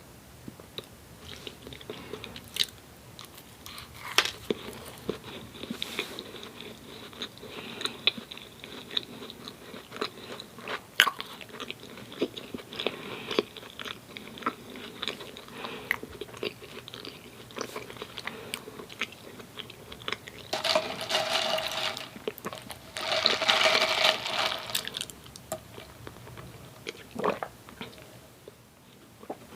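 A person chewing and biting into Krispy Kreme doughnuts, with many small wet mouth clicks. Two longer noisy stretches of a couple of seconds each come about two-thirds of the way through.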